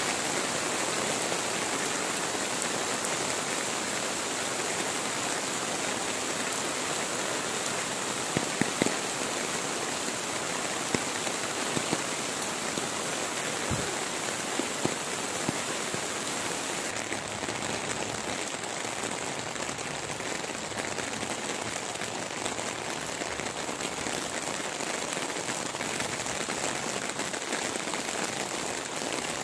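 Heavy rain pouring steadily onto floodwater and wet ground, a dense even hiss. A few sharp taps stand out partway through.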